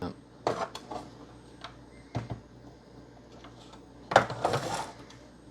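Scattered clicks and knocks from hands handling an opened Xbox One S console and its parts on a bench, with a louder short clatter about four seconds in.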